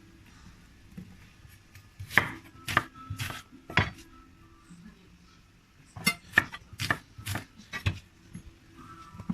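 Knife chopping on a cutting board: two quick runs of sharp knocks, about five strikes, a pause, then about six more.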